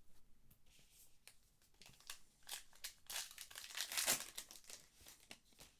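Trading card pack wrapper crinkling as it is handled and torn open, loudest about three to four seconds in.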